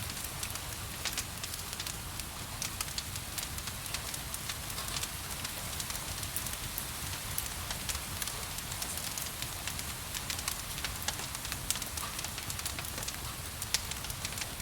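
Wood fire crackling in a fireplace, with frequent small sharp pops over a steady hiss of gentle rain and a low rumble.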